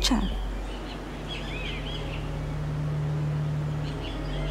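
Small birds chirping in short, quick arched calls, twice in clusters, over a steady low hum.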